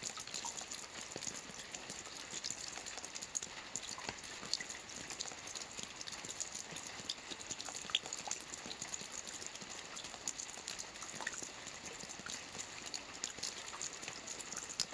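Soft rain falling on a roof: a steady hiss with many scattered, distinct drop taps.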